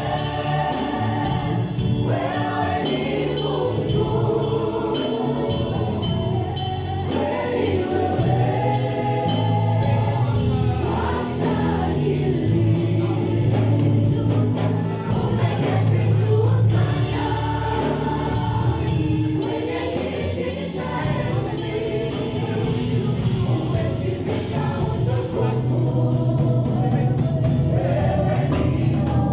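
Gospel choir singing a worship song with a live band, held bass notes underneath and light percussion.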